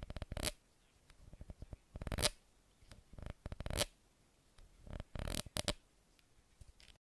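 Close-miked ASMR trigger sounds: short bursts of scratching and rustling, each made of rapid ticks, coming about every second or so with quiet gaps between.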